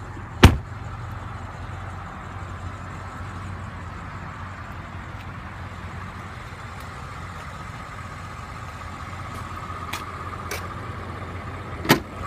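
BMW 750i xDrive's 4.4-litre twin-turbo V8 idling steadily. A loud sharp click about half a second in and another near the end come from the hood release lever and hood latch being worked.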